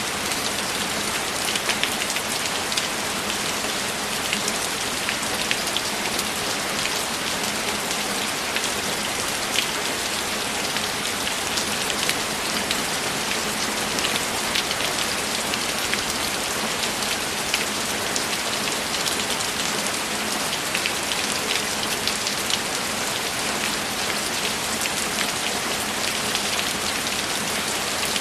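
Steady rain falling, an even hiss with many scattered drops tapping.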